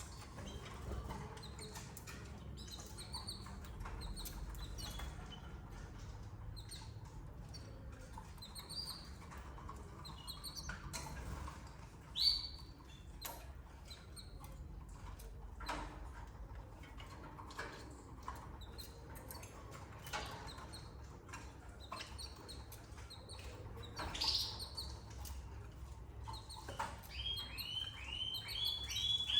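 Canaries chirping softly, with scattered clicks and rustles of movement over a steady low hum. Near the end a canary starts a fast trill of repeated high notes.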